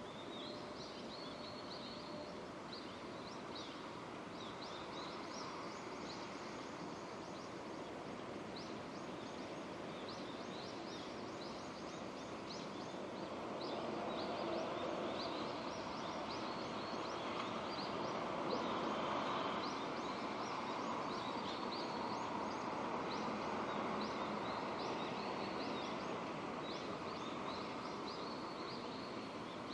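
Steady rainfall, with small birds chirping repeatedly over it. The rain noise swells somewhat louder about halfway through and eases off again near the end.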